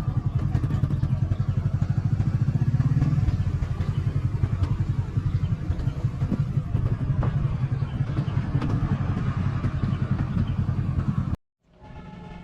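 Small motorcycle engine running at low speed with a fast, even pulse and a few knocks of clatter. Near the end it cuts off abruptly, and a quieter, steadier engine sound then builds back up.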